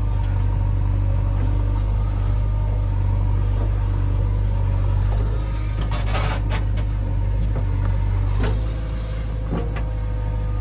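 Diesel engine of heavy earth-moving machinery running steadily. A burst of rattling comes about six seconds in, and a few sharp knocks follow near the end.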